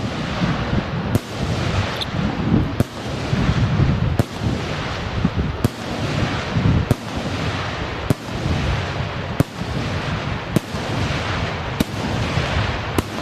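Aerial fireworks shells bursting overhead: a sharp bang about every second and a quarter, over continuous crackling and low rumbling from the display.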